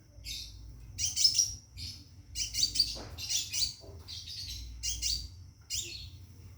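Scarlet minivet singing in rapid bursts of high chirps, repeating every half second to a second, with a thin steady high whistle between bursts: a call to a female.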